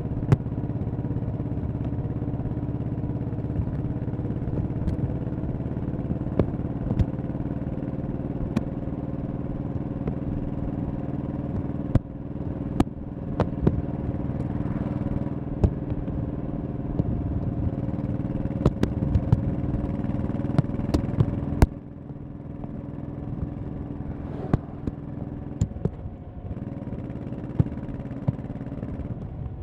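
1100cc V-twin motorcycle engine running steadily at cruising speed, becoming noticeably quieter about two-thirds of the way through. Sharp clicks are scattered over the engine sound.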